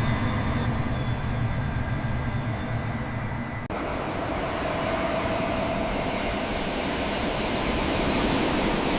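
Steady airliner cabin noise, a rushing hum with a low drone, inside a Singapore Airlines Airbus A380. About a third of the way in it changes abruptly to a duller, steady rush.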